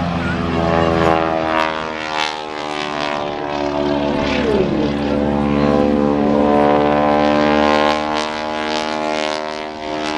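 Propeller-driven aerobatic airplane engine running loud as the plane passes, a steady drone of several tones.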